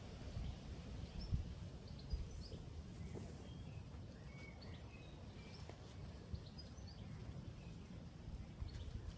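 Small birds chirping in short, scattered calls over a steady low outdoor rumble, with a few soft knocks in the first seconds.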